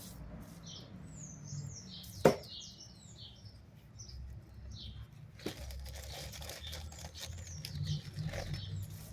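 Small birds chirping in the background, with clusters of short high chirps, a single sharp click a little over two seconds in, and a low rumble underneath.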